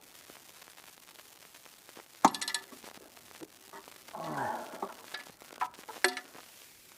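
Metal hand tools and bolts clinking and knocking while a cover plate under a car is unbolted: a sharp ringing metallic clink about two seconds in, a short rasping sound around four seconds, then a few lighter clicks near the end.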